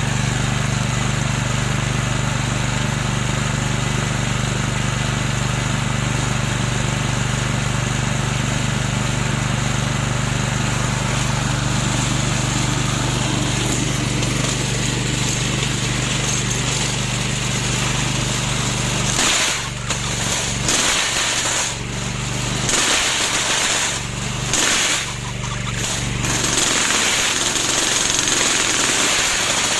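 Lawn mower engine of a remote-controlled mower running steadily. About two-thirds of the way through, the sound turns uneven for several seconds, with rough noisy bursts and brief dips, before settling into a steady run again.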